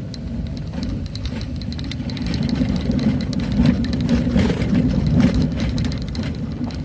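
A vehicle's engine running steadily on the move, with frequent short knocks and rattles from the ride over the road.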